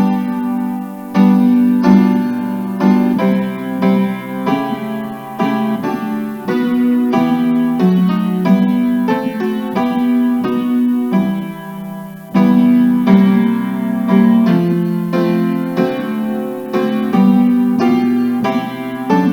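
Piano playing a hymn tune in chords, with notes struck in a steady, moderate rhythm.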